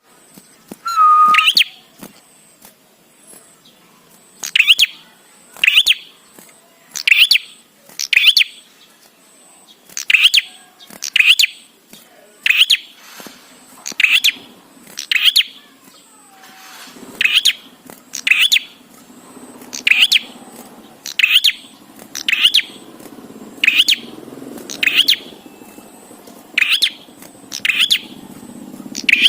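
A prinia (prenjak) calling over and over, a sharp loud note about once a second or a little slower, each a quick downward sweep. A faint low hum comes in from about halfway through.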